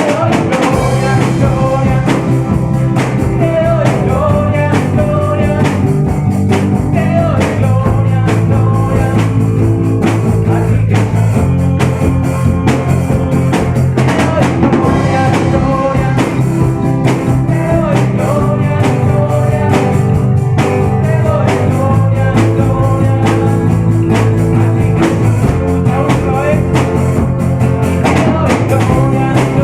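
Worship band playing an instrumental passage of a worship song, with drum kit and a steady bass line.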